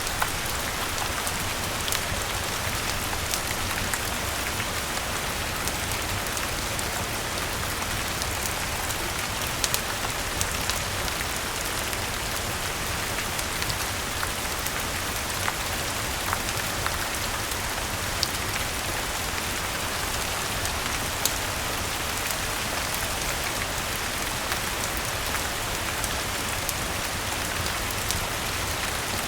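Steady rain falling on leaves and ground, an even hiss with scattered sharp ticks of individual drops or small pops throughout.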